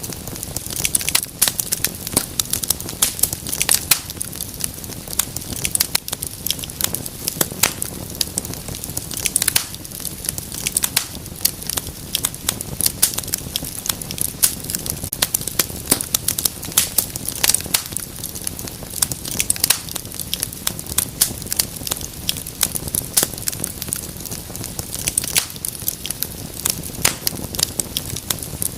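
Wood fire in a fireplace crackling and popping: dense, irregular sharp pops and snaps over a steady low rumble of burning logs.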